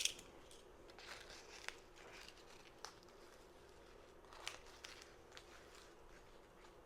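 Faint rustling and a few light clicks of ingredients and packets being handled at a kitchen counter, over near-silent room tone.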